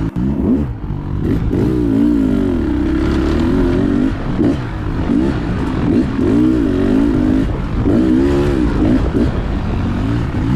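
Dirt bike engine running under way, its revs rising and falling repeatedly as the throttle is worked over uneven trail.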